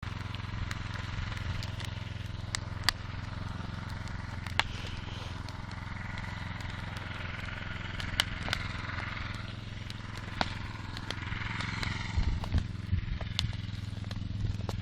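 Bonfire crackling: scattered sharp pops and snaps over a steady low hum, with a few low thumps about twelve seconds in.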